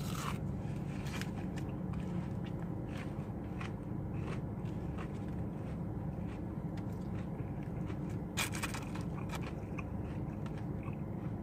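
Close-miked chewing of crunchy fried onion rings: a string of short, crisp crunches and crackles over a steady low hum.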